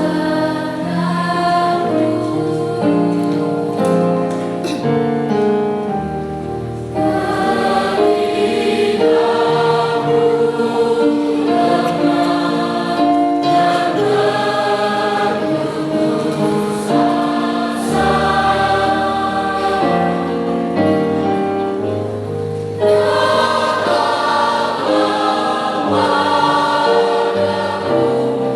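Junior and senior high school choir singing in parts, holding sustained chords. The music swells louder about 7 seconds in and again near 23 seconds.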